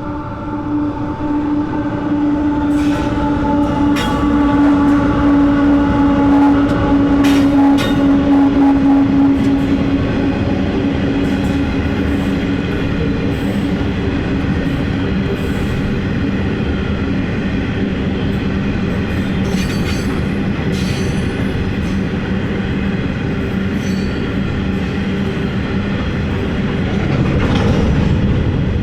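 Diesel locomotives of an empty coal train passing, with a strong engine tone that eases slowly downward over the first ten seconds. The loaded-down rumble of the consist then runs on steadily, with scattered wheel clicks on the rail joints.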